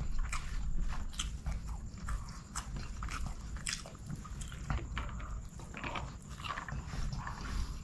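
Close-miked chewing of chicken biryani: a run of short wet mouth clicks and crackles as the food is chewed. Fingers mix rice against a banana leaf at the same time.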